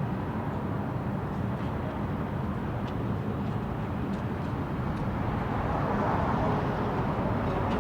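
City street ambience: a steady rumble of traffic with a background murmur of people, the crowd noise growing a little louder near the end.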